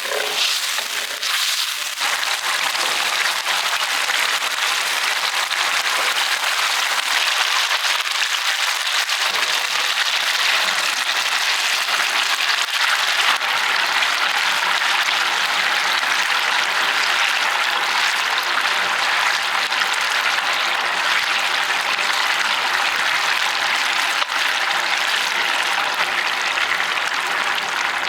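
Sirloin steak sizzling over an oak wood fire: a steady, dense crackling hiss.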